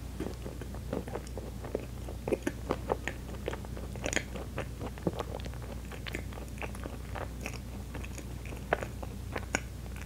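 Close-miked chewing of soft Baumkuchen sponge cake with cream filling: irregular wet clicks and smacks of a closed mouth, a few louder ones about two to three seconds in and one near the end.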